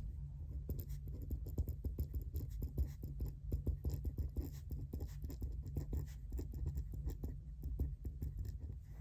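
Pen writing on paper: quick scratchy strokes and small taps, irregular and continuous, over a steady low hum.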